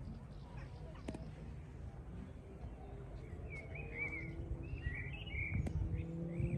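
Birds calling, a quick run of short chirps in the second half, over a low outdoor rumble with a few sharp clicks.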